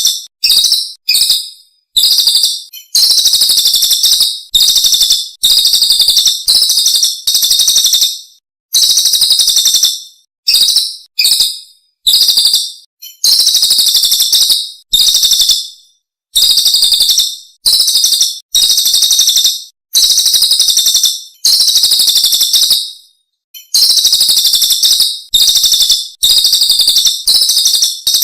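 Recorded songbird calls played as a masteran training track: loud, high-pitched trilling phrases repeated one after another, each starting abruptly and fading, with short gaps between them.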